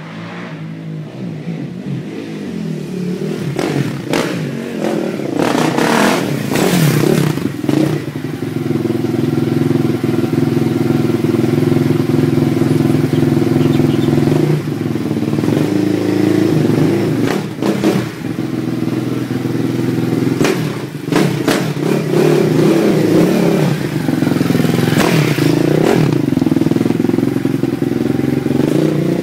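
2006 KTM 450 SMR single-cylinder four-stroke engine through an Akrapovic exhaust, being ridden with its pitch rising and falling as the throttle opens and closes. It grows louder over the first few seconds, with several sharp cracks along the way.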